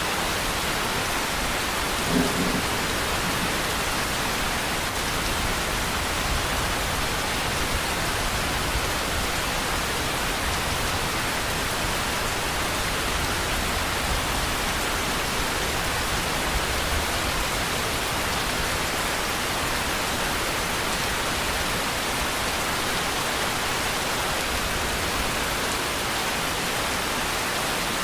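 Steady rain, an even hiss with no break, with a low rumble underneath through the middle part and a brief short sound about two seconds in.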